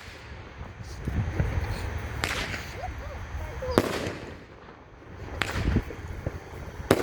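A 12-shot 200 gram fireworks cake firing, with a sharp bang about every second and a half, some followed by a short crackling tail.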